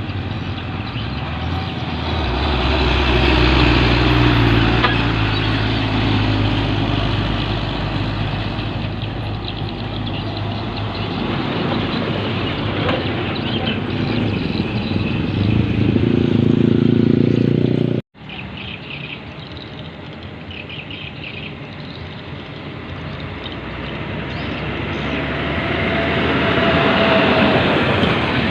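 Heavy 8x4 truck diesel engines running, with rough engine noise swelling louder twice. A sudden break comes about two-thirds of the way through, and then an engine builds up loud again near the end.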